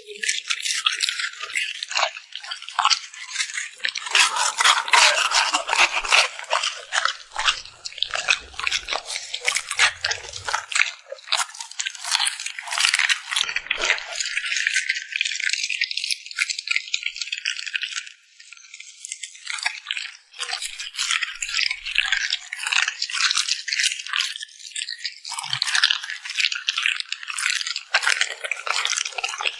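A dog eating close to the microphone: rapid, dense crunching and wet smacking of chewing, going on without a break.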